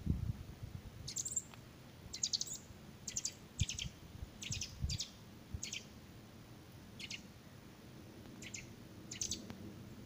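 Songbird calling: short clusters of quick, high-pitched notes repeated about ten times, roughly one every second, with low rumbling bumps underneath.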